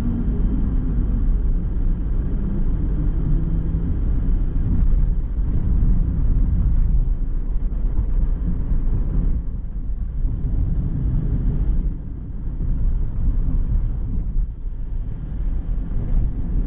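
Steady low road rumble of a car driving, tyre and engine noise, easing off briefly a few times in the second half.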